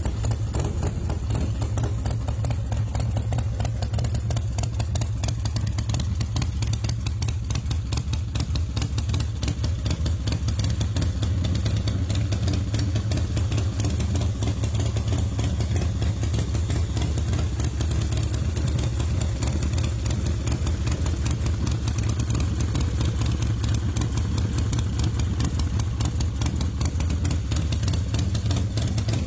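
A custom chopper's big V-twin engine running steadily with a deep, even rumble.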